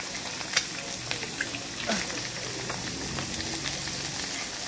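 Eggs frying in hot melted margarine in a wok: a steady sizzle with scattered sharp crackles and pops.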